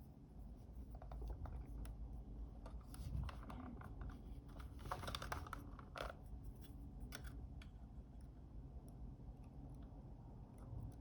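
Scattered small clicks and light scratching of a hand tool working on a camera's flex cable, with a short burst of scraping about five seconds in: the sticky glue is being scraped and cleaned off the cable.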